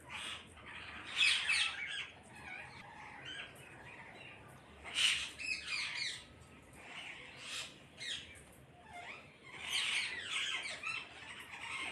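A flock of parrots squawking: harsh, overlapping calls in repeated bursts, loudest about a second in, around five seconds in and again near ten seconds.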